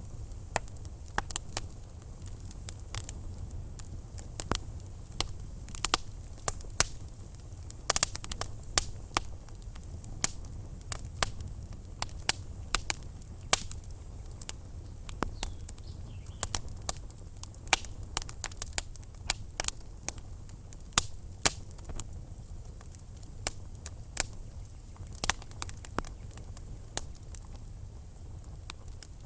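Wood fire crackling in a fireplace: sharp, irregular pops and snaps over a low, steady rumble, with a quick cluster of pops about eight seconds in.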